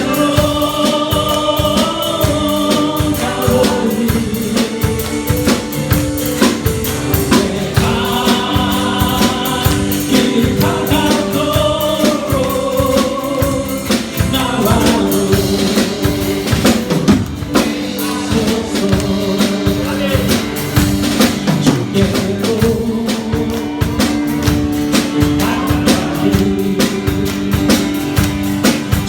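Congregational worship singing with a live band: voices singing a praise song over held keyboard chords and a steady drum-kit beat.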